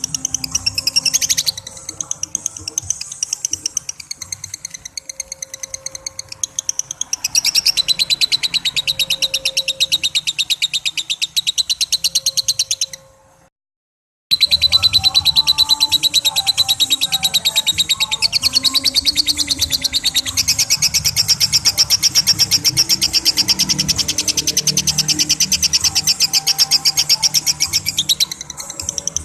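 A lovebird giving long 'ngekek' chatter: a rapid, unbroken run of shrill high notes held for many seconds. It stops dead about 13 seconds in and starts again a second later.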